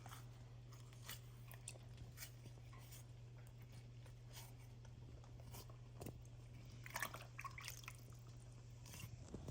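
Quiet kitchen handling: faint scattered clicks and light knocks over a low steady hum, with a short run of small handling noises about seven seconds in.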